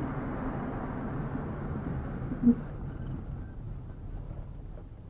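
Steady low road rumble of a vehicle driving, heard from inside the cab, easing off slightly toward the end, with one brief loud squeak about two and a half seconds in.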